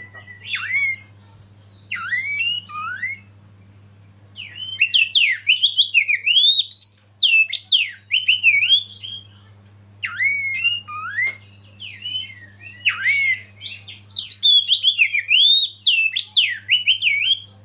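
Oriental magpie-robin singing loud phrases of rapid, swooping whistled notes, with short pauses between phrases. A faint steady low hum runs underneath.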